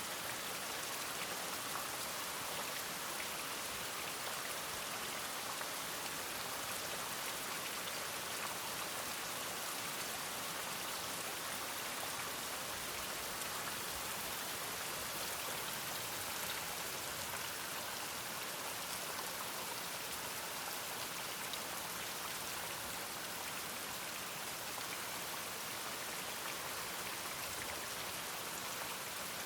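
Steady rain: an even hiss of falling drops, with faint ticks of single drops striking a surface.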